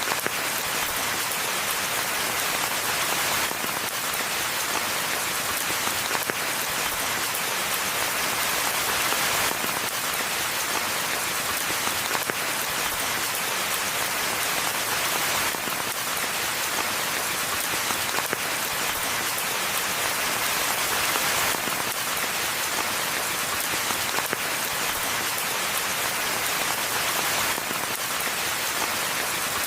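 Steady rain falling in a forest: a dense, even hiss of many drops with no let-up.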